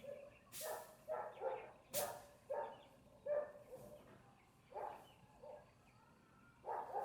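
Puppy yipping, a run of short high calls about every half second with a brief pause near the end, and a couple of sharp knocks early on.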